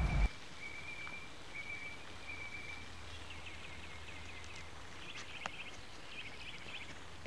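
A loud rumbling noise stops abruptly just after the start, leaving quiet outdoor ambience with a small bird calling. It gives high drawn-out notes for the first three seconds or so, then quick repeated chirps.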